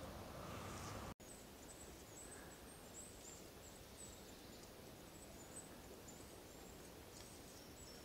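Quiet forest ambience with faint, very high, thin chirps of small birds, broken up and repeated. The sound cuts out for an instant about a second in.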